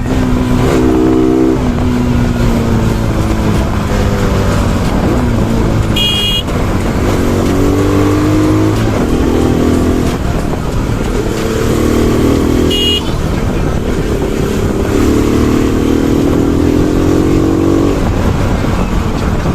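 Bajaj Pulsar NS200's single-cylinder engine under way, its pitch climbing with the revs and dropping back at each gear change, several times over. A horn sounds briefly twice, about six and thirteen seconds in.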